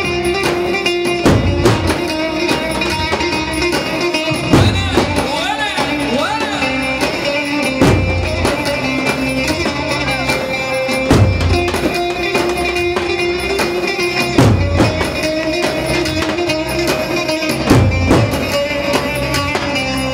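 Turkish folk dance music from a wedding band: a held, bending melody over a steady beat, with heavy low drum hits every few seconds.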